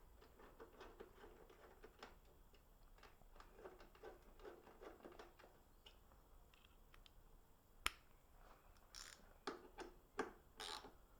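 Near silence with scattered faint clicks and light taps, a single sharp click about eight seconds in, and a few louder clacks near the end.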